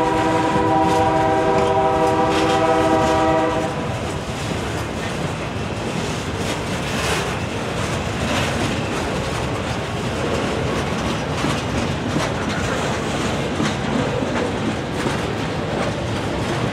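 Freight train rolling past: a locomotive air horn sounds a steady multi-note chord for about the first three and a half seconds, then cuts off. After that, freight cars' steel wheels rumble steadily on the rail, with irregular clacks over the rail joints.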